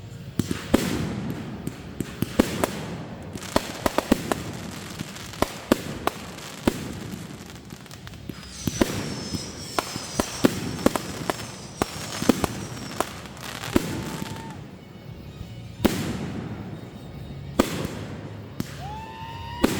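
Fireworks going off: a rapid string of sharp bangs and crackles, with high whistles falling in pitch about halfway through and a rising whistle near the end.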